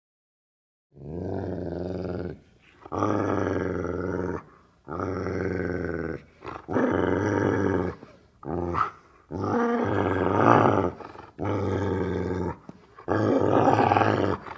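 Wolf growling: about eight deep, rumbling growls, each about a second long with short pauses between them.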